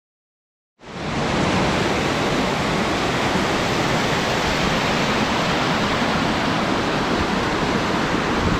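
Waterfalls on a small river rushing steadily, heard from the top of the falls, coming in suddenly after a second of silence.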